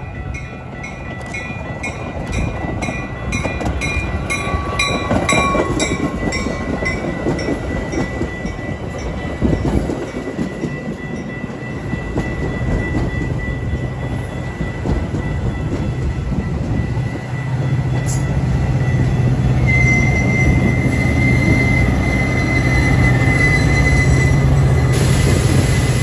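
Metra commuter train passing a grade crossing. The crossing bell rings over the approaching train at first, then bilevel passenger cars roll by. For the last several seconds the diesel locomotive's engine runs loud as it passes, with a high, steady wheel squeal.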